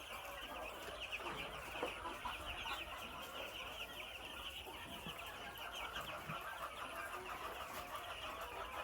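A flock of 12-day-old broiler chicks peeping continuously, a dense chorus of many overlapping high, short cheeps.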